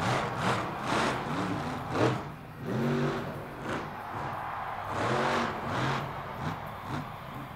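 Grinder monster truck's 1,500-horsepower engine revving again and again, its pitch climbing and dropping with each blip of the throttle.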